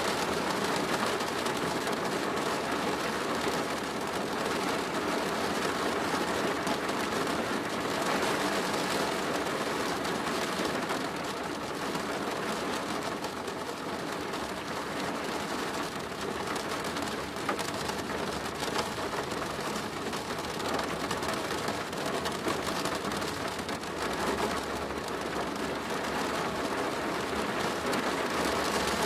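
Rain falling on a plastic roof, a steady dense patter of drops.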